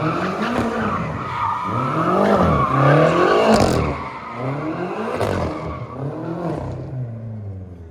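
Car doing a burnout or donuts: the engine is revved up and down over and over, about once every second and a half, with tyres squealing. It fades away over the last two seconds.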